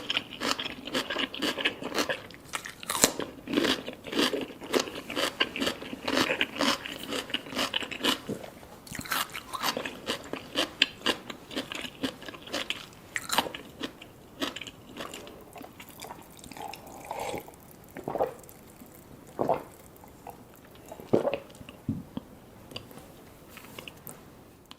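Close-miked chewing and crunching of salmon sashimi with red tobiko and sea grapes. The wet crunches come thick and fast for the first several seconds, then thin out to scattered single chews.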